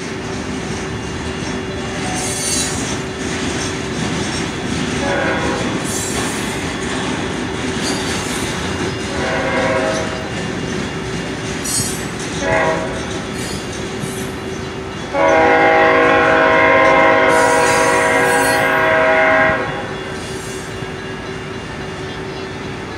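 Freight train of tank cars rolling through a grade crossing, wheels clattering and squealing. Three short train-horn notes sound in the first half, then one long horn blast of about four seconds starting about fifteen seconds in, the loudest sound.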